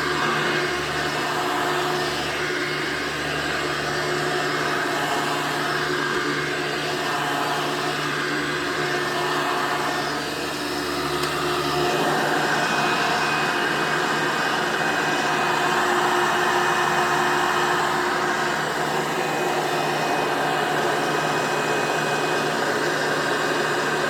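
2001 Hoover Soft & Light vacuum cleaner running steadily, its motor failing. The sound shifts slightly about halfway through.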